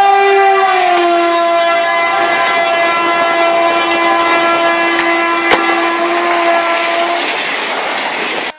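A train horn sounding one long blast over the rumble and clatter of a train running on the rails. The horn's pitch drops slightly about a second in. The horn stops near the end while the rail noise carries on, and two sharp clicks come about halfway. Everything then cuts off suddenly.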